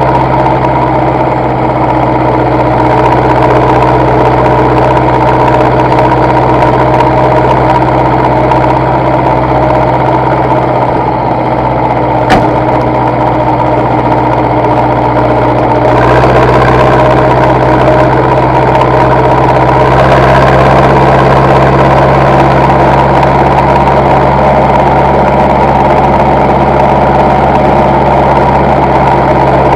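Zetor tractor's diesel engine running steadily at a constant speed, with one sharp click about 12 seconds in. From about 16 seconds in, a rushing hiss joins the engine note.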